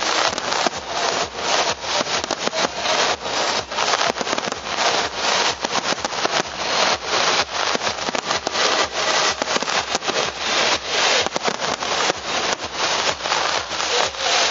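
Fireworks display going off in a dense, continuous barrage of rapid pops and crackles, several a second, with no pause.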